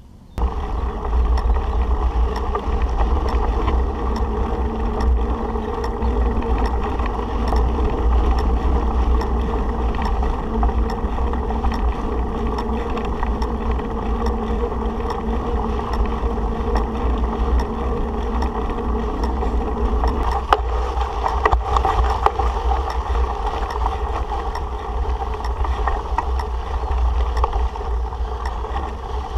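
Bicycle tyres rolling over a gravel track with faint crackling, under a steady low rumble of wind on the microphone.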